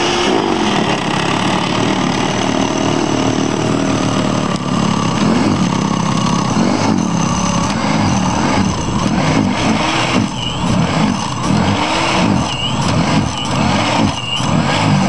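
Toro 1800 Power Curve electric snowblower running through deep snow, a steady motor hum and whine whose pitch rises and dips again and again as it takes in the snow.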